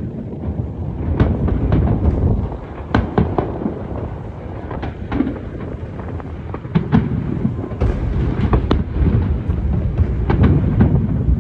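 Aerial fireworks shells bursting one after another: many sharp cracks, irregularly spaced, over a continuous low rumble of booms.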